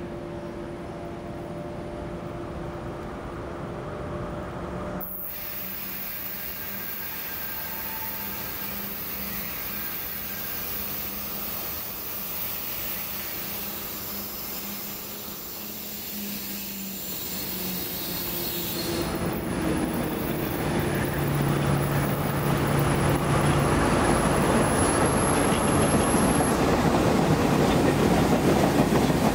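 Diesel-hauled test train (Brookville BL20G locomotive leading a converted R32 railcar) approaching and passing close by. The engine drone and the noise of wheels on rail grow steadily louder over the second half, with a thin high whine for several seconds as the locomotive comes by.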